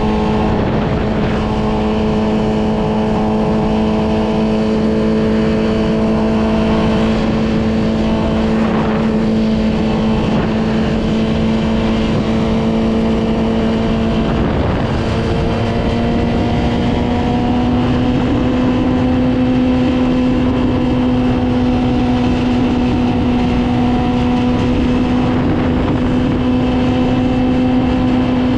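Yamaha R6's 600 cc inline-four engine running at steady, held revs while riding, its note stepping up slightly in pitch about halfway through, over a rushing noise.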